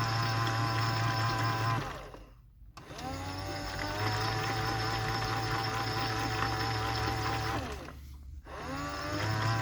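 AEG/Electrolux Lavamat 84950 washing machine's drum motor turning the drum during the final rinse. It stops for about a second around two seconds in, then starts again with a rising whine as the drum reverses direction. After about five seconds it stops again near the end and restarts.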